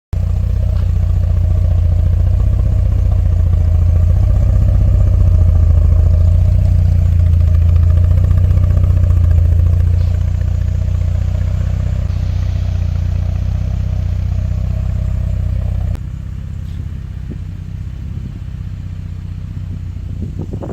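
Chevrolet Camaro's direct-injection (GDI) engine running steadily with a deep, even exhaust note. It gets a little quieter about ten seconds in and drops suddenly in level about sixteen seconds in.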